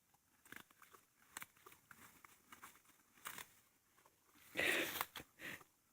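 A horse grazing close by: faint, scattered crunching and tearing of grass, with a louder rustling tear about four and a half seconds in and a shorter one just after.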